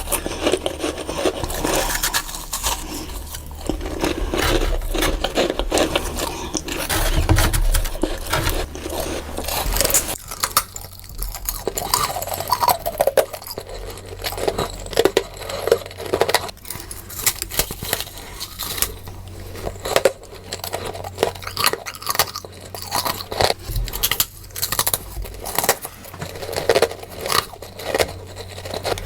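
Close-miked biting and chewing of freezer frost, crunching and scraping, played sped up. The first third is dense and continuous, after which it turns into sharper, separate crackles.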